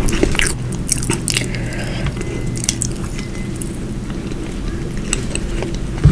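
Close-miked chewing and mouth sounds of someone eating soft food, with quick clicks that come thick in the first two seconds and more sparsely after, over a steady low hum.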